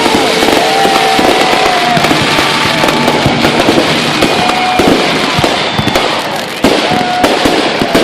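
Aerial fireworks going off in a dense, continuous barrage of bangs and crackling. Several whistling fireworks sound held tones that drop in pitch as they end. A sharper, louder burst comes about six and a half seconds in.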